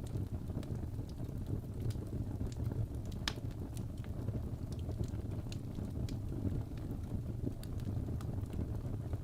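Wood fire burning in a fireplace: a steady low rumble of the flames with scattered sharp crackles and pops from the burning logs, one louder pop about three seconds in.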